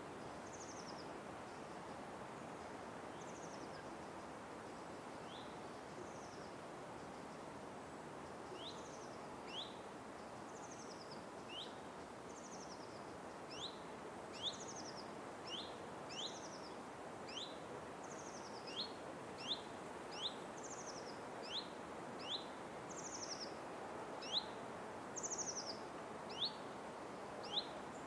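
Birds calling over a steady forest background hiss. There are two kinds of repeated high note: a short falling buzzy note and a quick rising chirp. The chirps come thinly at first and then about once a second from about a third of the way in.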